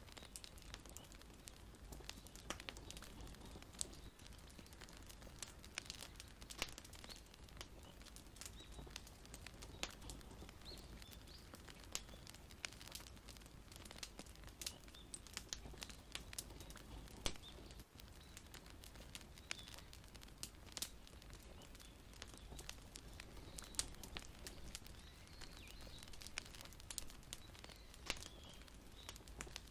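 Wood fire crackling: irregular sharp pops and snaps, several a second, over a steady low hiss.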